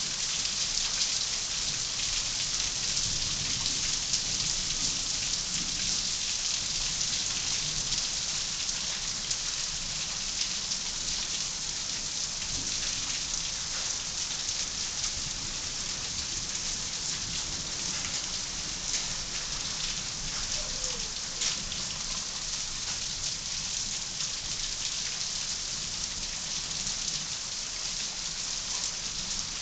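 Heavy rain falling steadily, a dense even hiss with scattered drop clicks.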